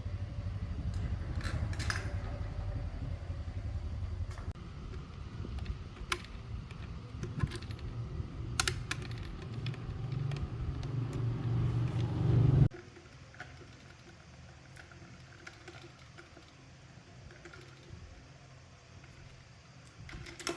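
A motor-driven machine running with a steady low rumble and rattling clicks, getting louder toward the end, then cutting off abruptly about twelve seconds in. Small handling clicks follow.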